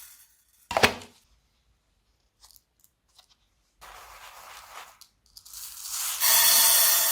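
Crunchy slime being pressed and stretched, crackling and popping. A sharp crack comes about a second in, then a few faint ticks, then a longer crackling stretch that grows louder near the end.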